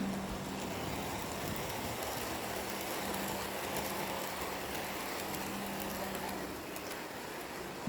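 HO scale model locomotive running on the layout's track: an even rolling hiss of small wheels on rail with a steady motor hum that fades in the middle and comes back strongly at the very end.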